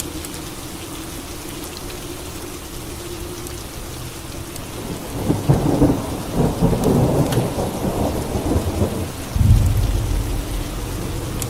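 Steady rain with a peal of thunder that breaks about halfway through, crackling for a few seconds and then rolling into a deep rumble near the end.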